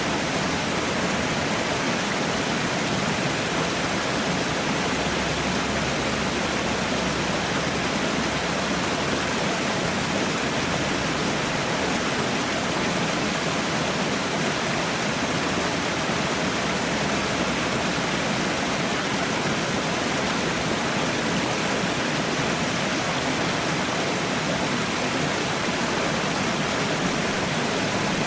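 Water falling and rushing in a steady, unbroken roar, as of a waterfall.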